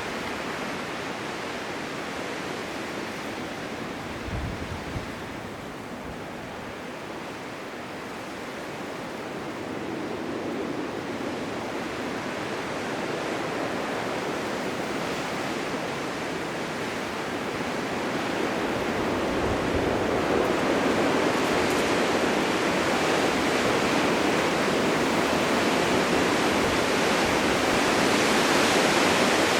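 Blizzard wind blowing as a steady rushing noise, swelling louder over the last two thirds.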